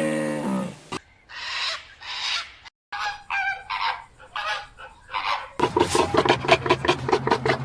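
Farm animals calling: two drawn-out calls, then a string of shorter ones. About two-thirds of the way in, a different scene starts abruptly, with a rapid run of overlapping calls over a steady low drone.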